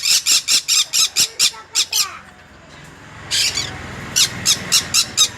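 Yellow-sided conure squawking: rapid runs of harsh, high-pitched calls, about five a second, broken by a pause about two seconds in, then one longer call and another fast run.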